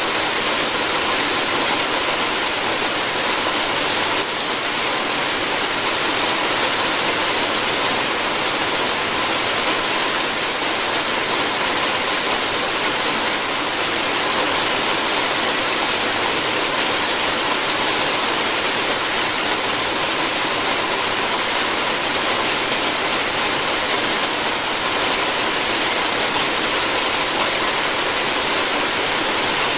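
Steady heavy rain falling on a roof, a dense, even hiss of drops with no breaks.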